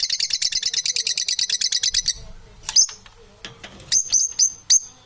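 Parrots calling: a fast, even, high-pitched trill that stops about two seconds in, followed by a few separate sharp chirps.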